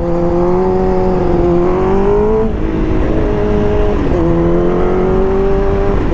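Liter-class sport motorcycle engine running under way, its pitch climbing a little and then dropping about two and a half seconds in and again near four seconds in, as on upshifts, with low wind rumble on the microphone.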